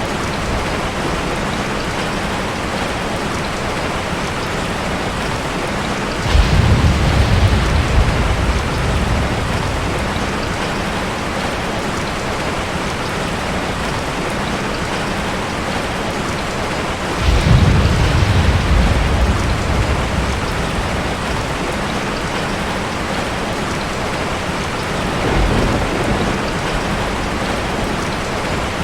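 Steady heavy rain falling on a forest, with rolls of thunder: two strong low rumbles that swell suddenly and fade over a few seconds, and a fainter third one near the end.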